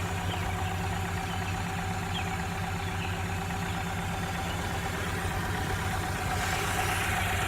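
1998 Ford Ranger engine idling steadily. It has a misfire, which the owner puts down to the plug wires or coil packs, and it shakes on worn motor mounts.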